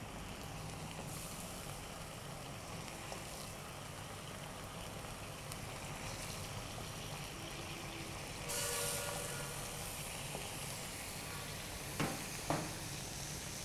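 Raw chicken lollipops sizzling steadily in a pan of wet onion-and-chilli masala. The sizzle swells briefly about eight and a half seconds in, and two light knocks come near the end.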